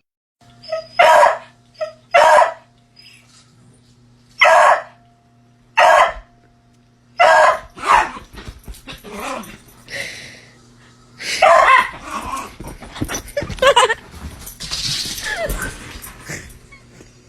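A dog barking in single, separate barks, about ten of them, a second or more apart. A faint steady low hum runs underneath.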